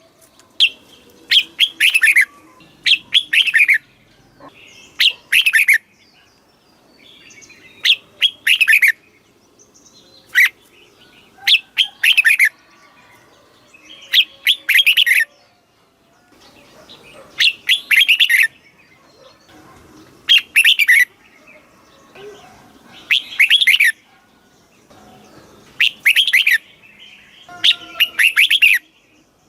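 Red-whiskered bulbul singing short, loud, warbled phrases over and over, one every two to three seconds, with brief pauses between them.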